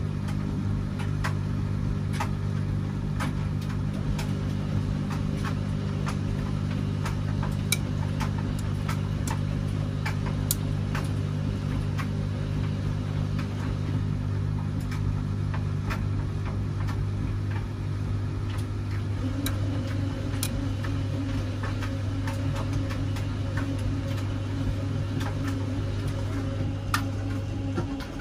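Washing machine running: a steady motor hum with many scattered clicks from the turning drum. About two-thirds of the way through a second, higher tone joins, and the main hum stops shortly before the end.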